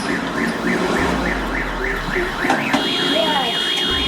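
Siren-like warbling alarm, its pitch sweeping up and down about three times a second, over a low engine hum. A steady high-pitched beep joins near the end.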